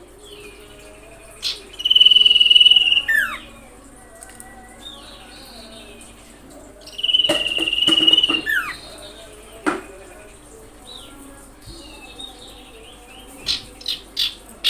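Common iora calling: two long, steady whistled notes, each ending in a quick falling slur, about two and seven seconds in. Softer chirps come between them, and a few short sharp notes near the end.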